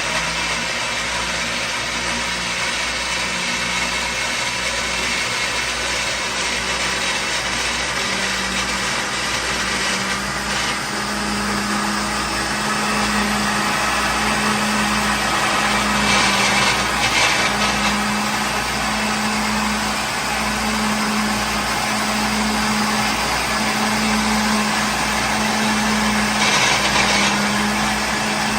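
Electric kitchen blender running steadily at full speed, a dense whir over a low hum that swells and fades about once a second. A few brief brighter surges come in the whir partway through.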